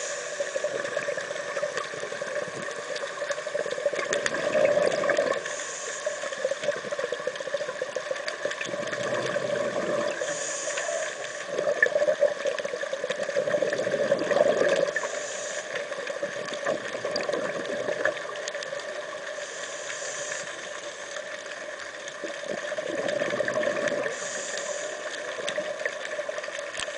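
A scuba diver's regulator breathing underwater: a short hiss of inhalation about every five seconds, each followed by a gurgling rush of exhaled bubbles, over a steady hum.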